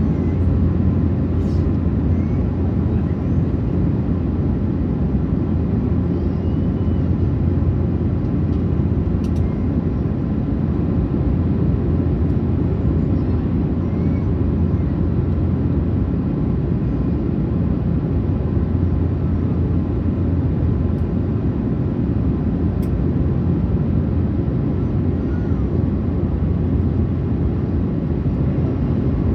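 Steady low drone of an Airbus A380-800 airliner's engines and airflow heard from inside the passenger cabin, unchanging throughout.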